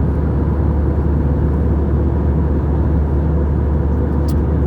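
Steady cabin noise of an Airbus A320 in flight, heard from a window seat: a deep, even drone from its CFM56-5B engines and the airflow, with a faint steady hum.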